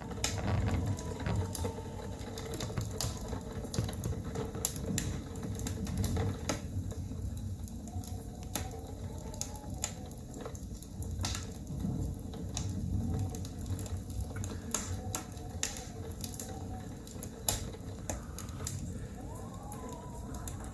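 Blizzard wind gusting with a low rumble, frequent sharp ticks and a faint wavering whistle.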